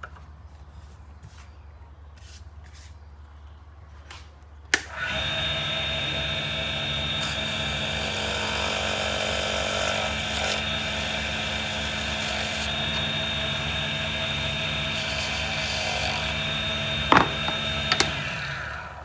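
A pen-turning lathe starts with a click about five seconds in and runs with a steady, high motor whine, then stops just before the end after a couple of sharp clicks.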